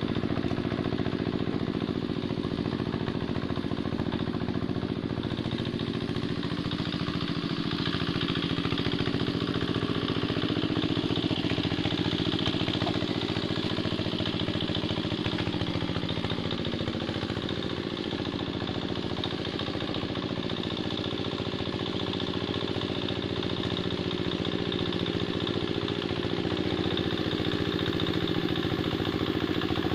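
Diesel engine of a Quick Capung Metal two-wheel hand tractor running steadily at an even pace while it ploughs sticky, weedy paddy soil.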